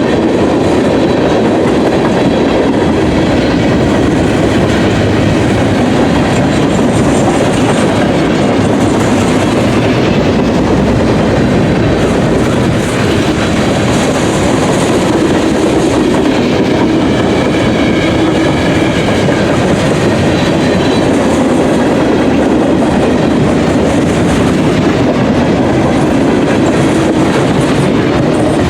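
Mixed manifest freight cars rolling past at track speed, steel wheels running on the rails in a loud, steady rumble.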